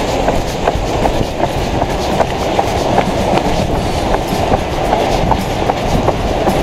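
Running footfalls, about three a second, heard as even thumps over a constant rushing noise. This is typical of a camera carried by a jogging runner.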